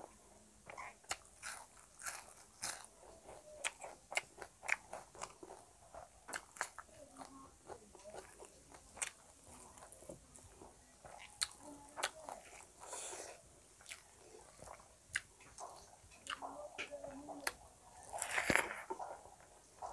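Close-miked eating: a mouth chewing food, with frequent short clicks, smacks and crunches. A louder burst of noisy chewing comes near the end as a large handful of rice goes into the mouth.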